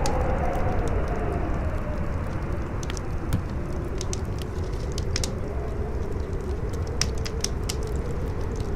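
Campfire crackling with sharp pops every so often, over a strong howling wind whose pitch sinks and rises again.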